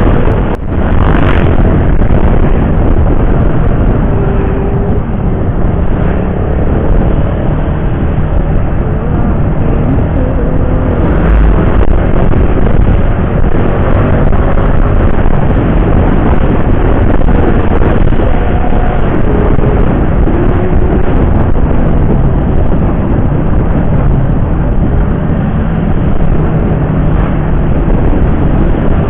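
Steady, loud rush of wind and road noise while riding a motorcycle on a highway, with the engine and traffic running underneath.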